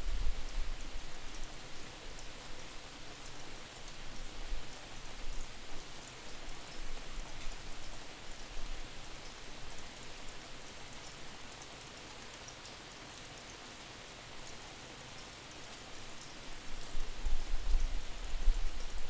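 Steady rain falling, with many small drips and patters. Wind buffets the microphone as a distorted low rumble near the start and again near the end.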